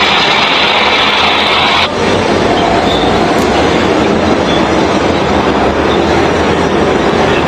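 A train running on rails: a loud, steady rumbling rush of wheel and track noise, whose hissing upper part drops off about two seconds in.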